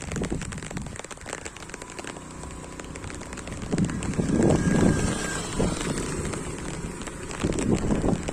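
Rain falling, with many small drops ticking on a nearby surface over a steady hiss. A louder low sound swells up about four seconds in and again near the end.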